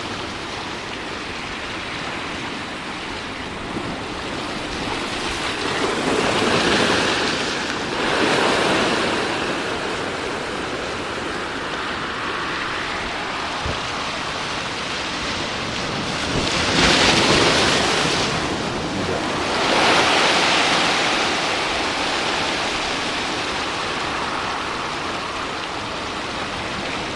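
Ocean surf breaking on a beach: a steady wash of water with several louder breakers surging in, about a quarter of the way through and again past the middle.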